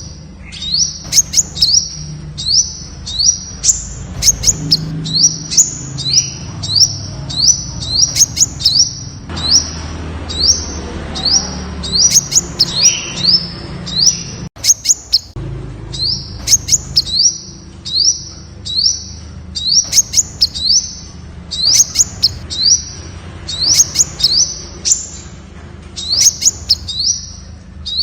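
Temminck's sunbird calling: a rapid string of short, high, sharp notes delivered in quick runs of three or four, repeated over and over.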